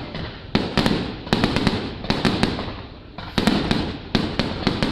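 Aerial fireworks bursting in quick, irregular volleys: several sharp bangs a second, each followed by a rumbling echo, with a brief lull a little past halfway.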